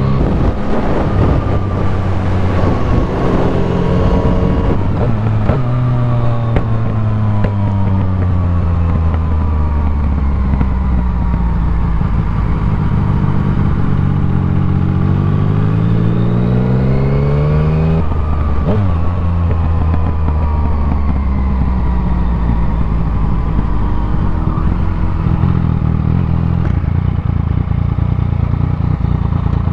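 Yamaha MT-09's inline-three engine through an aftermarket full exhaust system. The revs fall and rise several times as the bike slows and speeds up, drop sharply about two-thirds of the way through, then settle to a steady note near the end as the bike comes to a stop.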